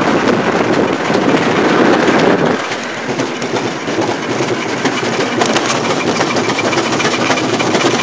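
Road and wind noise inside a Nissan 240SX (S14) moving along with its engine blown, the loud rushing easing a little about two and a half seconds in.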